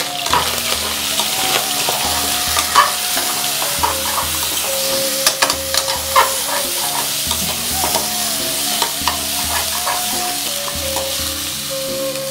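Mutton sizzling in hot oil with ginger-garlic paste and raw papaya paste in a pressure cooker, while a slotted steel spatula stirs it and scrapes against the pan. The sizzle is a steady hiss, with frequent sharp clicks and knocks of metal on metal.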